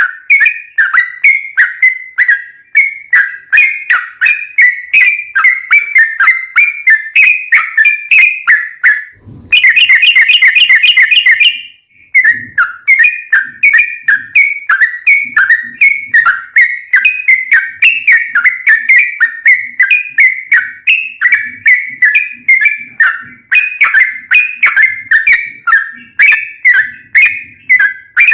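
Yellow-vented bulbul song played back loudly as a lure: a long series of quick falling chirps, about three a second, broken about ten seconds in by a faster, louder rattling run of notes.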